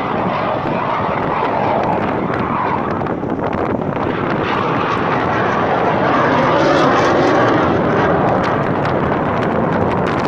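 Fighter jet flying overhead: a loud, steady rush of jet engine noise that swells a little about six to eight seconds in.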